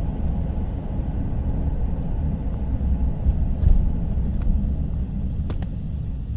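Low, steady rumble inside a car's cabin, with a few faint clicks in the middle.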